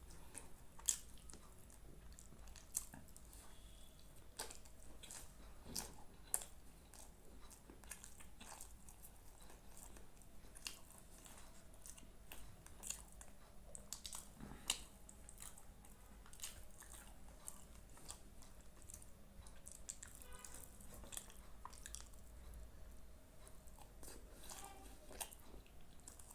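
A person chewing and biting food close to the microphone, with irregular small clicks and crunches.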